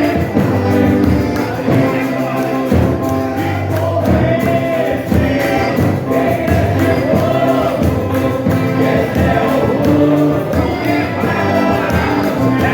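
A group of voices singing a gospel hymn together with instrumental accompaniment, continuous throughout.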